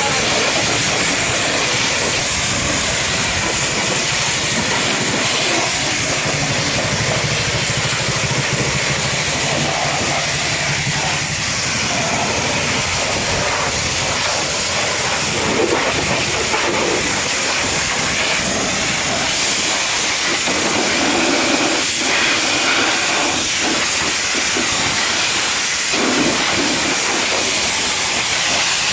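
High-pressure washer jet spraying water onto a truck: a steady, loud hiss.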